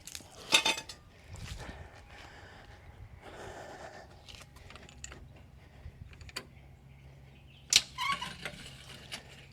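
Scattered clicks and knocks of hand tools and fasteners as the car's front air dam is fastened back in place: a sharp click near the start and two more in the second half, with softer handling noise between.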